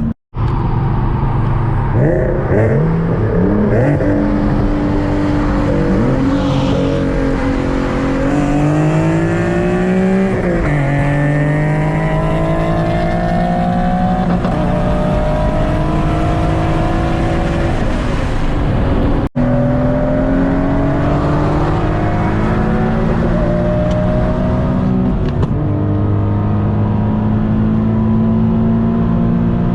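Car engine pulling hard: its pitch climbs as it revs up and then drops back at gear changes, several times over. The sound cuts out briefly twice.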